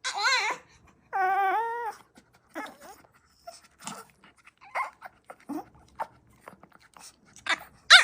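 Dog whining and whimpering in odd, crying-like cries: a wavering cry at the start, then a held whine of about a second, then softer short whimpers and a sharp yelp near the end.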